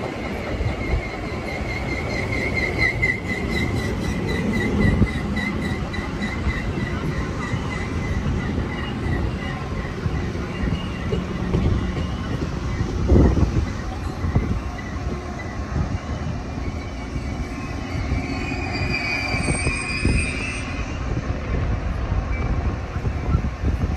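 A Metra commuter train of bilevel gallery cars rolls past, making a steady rumble of wheels on rail with repeated knocks and one loud thud about halfway through. A pulsing metallic squeal runs through the first several seconds, and a higher squeal comes near the end.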